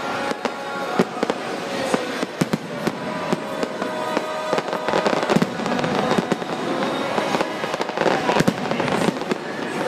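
Fireworks display: a rapid string of bangs and cracks, with music playing underneath.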